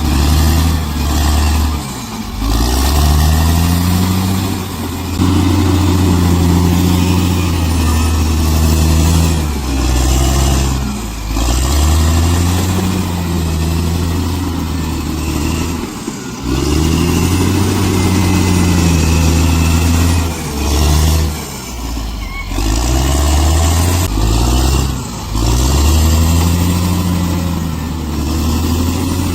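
Bulldozer's diesel engine working under load, its pitch rising and falling repeatedly with brief dips every few seconds as the throttle and load change.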